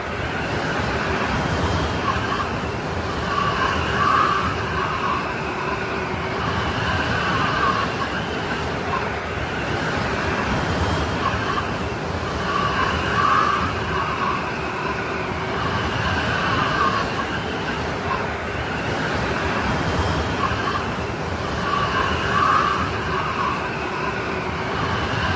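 Strong snowstorm wind blowing steadily, with whistling, howling gusts that swell and fade about every nine to ten seconds.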